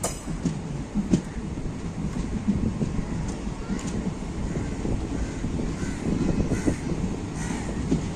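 Train noise: a steady low rumble with occasional knocks, and several short caws in the second half.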